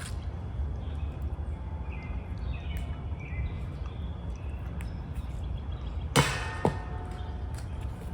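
A sharp clack about six seconds in with a brief ringing tail, and a second knock about half a second later, over a steady low wind rumble on the microphone and a few short high chirps.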